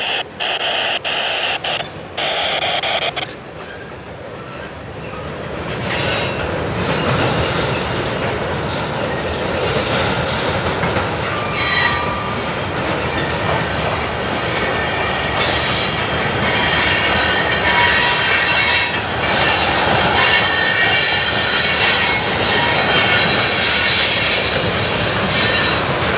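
Freight cars rolling past on steel wheels, a centerbeam flatcar and then tank cars. A high-pitched wheel squeal cuts in and out over the first three seconds, then gives way to a steady rumble of wheels on rail with a few faint squeals.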